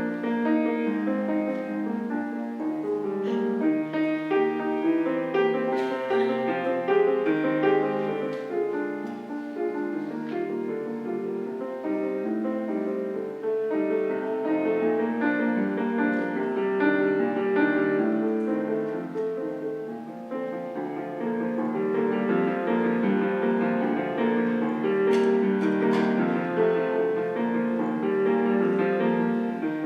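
Solo piano playing a slow, gentle piece, with notes ringing over one another throughout.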